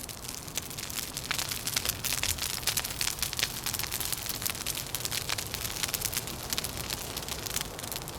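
Wood fire crackling, with many quick pops and snaps in a dense patter over a low steady rumble.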